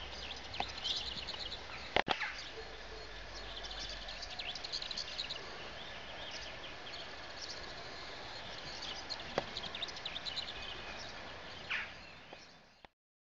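Small birds chirping over steady outdoor background noise, with one sharp knock about two seconds in. The sound cuts off shortly before the end.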